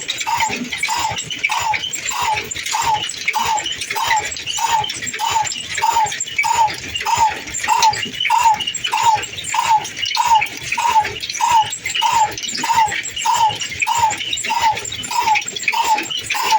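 Old stationary diesel engine running slowly and evenly, with a regular beat of about two firing strokes a second.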